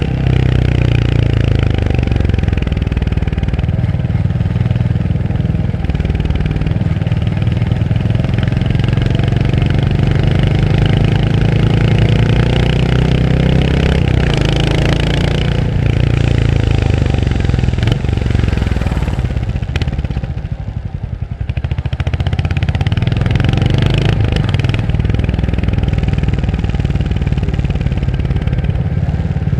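Royal Enfield Hunter 350's single-cylinder engine running under way, its pitch rising as the bike accelerates. It eases off briefly a little past the middle, then pulls again.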